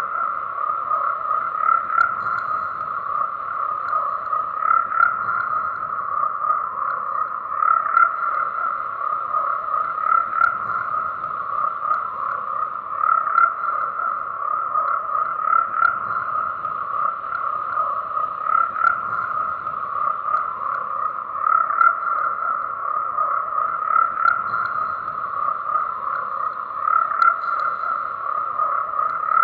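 A chorus of frogs calling, a dense, steady mass of overlapping pulsed croaks.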